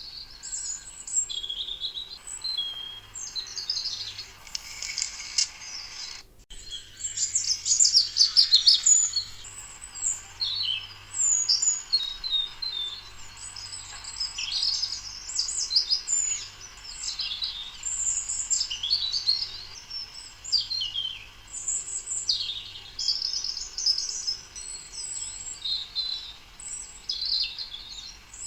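Many small birds chirping and twittering in quick, overlapping calls. The sound cuts out briefly about six seconds in.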